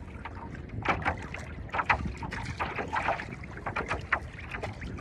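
Choppy water splashing and slapping against a paddleboard in irregular bursts about once a second, over a steady low rumble of wind buffeting the microphone.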